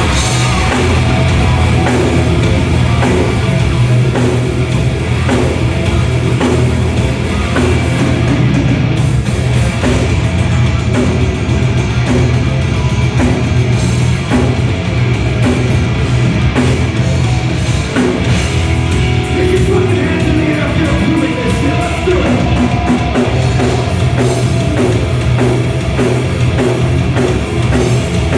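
Loud heavy rock music with a drum kit.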